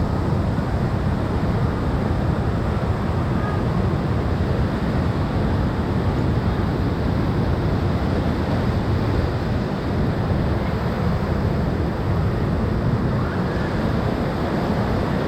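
Steady rushing of whitewater river current around a moving raft, with rough wind rumble on the microphone.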